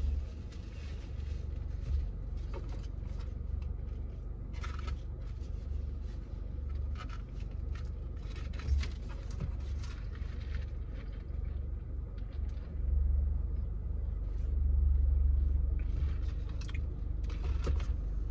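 A person chewing crispy fried chicken nuggets, with scattered crunches and small scrapes, over a steady low rumble from the car, which swells for a few seconds past the middle.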